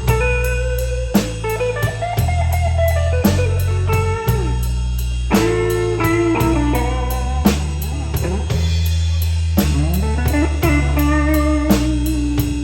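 Blues band playing an instrumental break: a lead guitar with bent, gliding notes over a steady bass line and drum kit.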